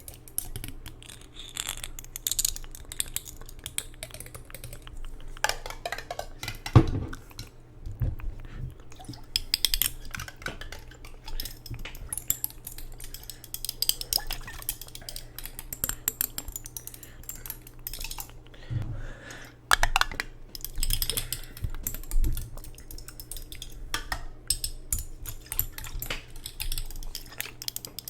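Close-up, irregular taps, clicks and clinks from handling a jar, with a few heavier knocks. A faint steady low hum runs underneath.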